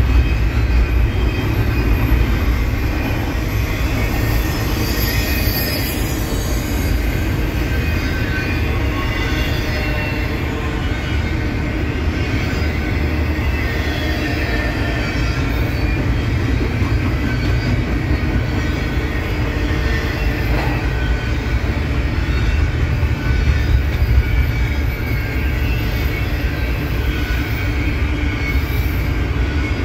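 Double-stack intermodal container train rolling steadily past, its wheels rumbling on the rails, with thin high squeals from the wheels wavering over the rumble.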